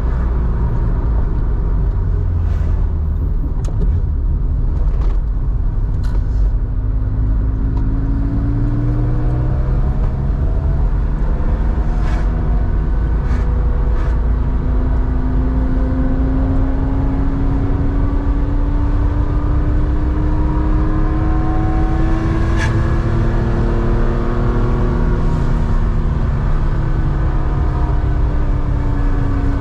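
Porsche 911's air-cooled flat-six running through a Scart 2-in-1-out muffler while driving, its note climbing slowly and steadily under acceleration, then dropping back near the end before pulling again. A few short sharp ticks sound over it.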